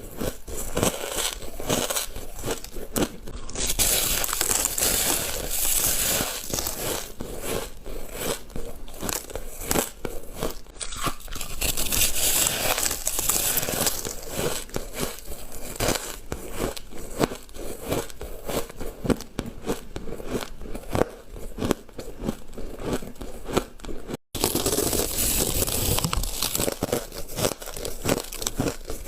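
A person biting and chewing ice, a dense run of irregular crunching and crackling, with a momentary break about three-quarters of the way through.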